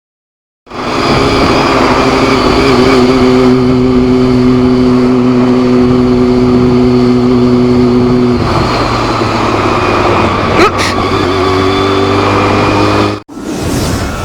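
Loud road-vehicle noise: a steady drone with held pitched tones that stop about eight seconds in, the noise carrying on until it cuts off suddenly near the end.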